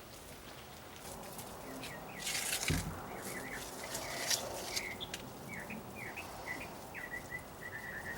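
A bird chirping outdoors in a quick run of short repeated notes, ending in a longer trilled note near the end. About two and a half seconds in there is a short rustle and a dull thump, with a few light clicks.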